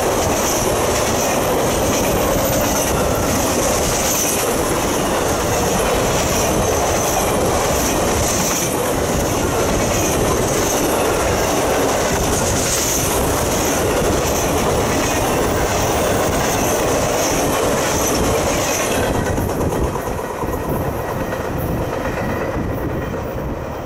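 Freight train of Triple Crown RoadRailer trailers on rail bogies passing close by, its wheels rolling on the rails with a high, wavering wheel squeal. About 19 seconds in the end of the train goes by and the sound drops away.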